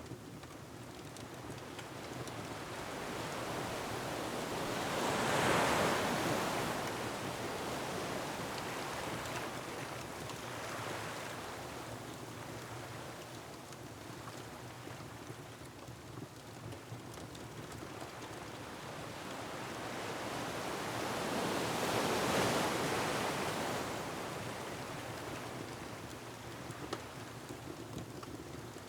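Ocean waves surging and crashing on a rocky shore, with wind. Two big waves build and break, the first about five seconds in and the second about seventeen seconds later, each fading slowly into a steady wash. A few faint fireplace crackles come near the end.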